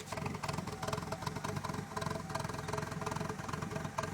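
Honda B18C1 four-cylinder engine idling low and rough, its exhaust pulses uneven and lumpy. It is running very rich, a fault the owner traced to a poorly connected MAP sensor.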